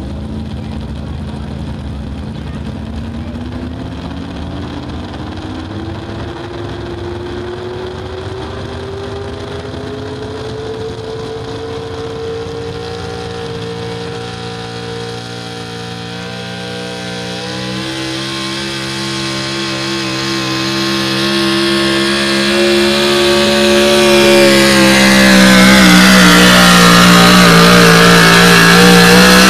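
Modified four-wheel-drive pulling truck's engine at high revs during a pull. Its pitch climbs over the first dozen seconds, then holds while it grows steadily louder, and it is loudest near the end.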